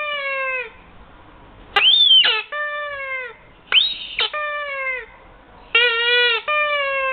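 Rubber squeaky toy squeezed and released over and over. Each squeeze gives a high squeal and each release a longer squeak that falls in pitch, in pairs about every two seconds.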